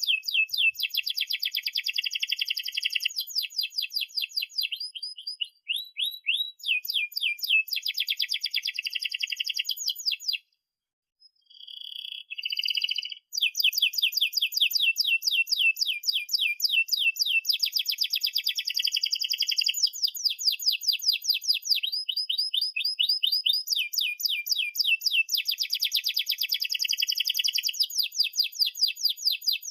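Domestic canary singing long, fast rolling trills of rapidly repeated high chirps, phrase after phrase, with a short break about ten seconds in.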